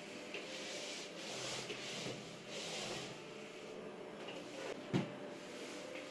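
Household handling sounds: several short brushing or rustling strokes, then a single sharp knock about five seconds in, over a faint steady hum.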